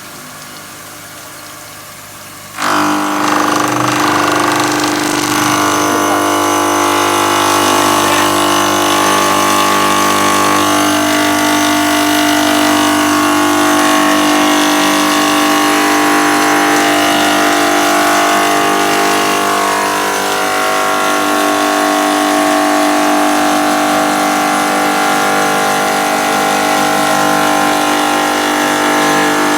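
A stone-cutting machine's moulding router grinding into stone: a loud, steady, high-pitched whine with hiss that comes in suddenly about two and a half seconds in and holds to the end.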